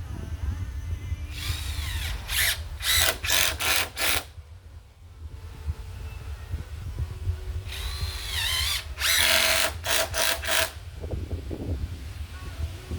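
Power drill run in two spells, each a longer run with its pitch sagging under load, followed by a handful of short trigger bursts, typical of driving screws into deck boards. A steady low rumble sits underneath.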